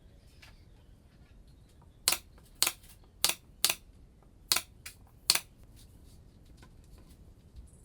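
Seven sharp, light clicks in an uneven rhythm over about three seconds, starting about two seconds in; the sixth is fainter than the rest.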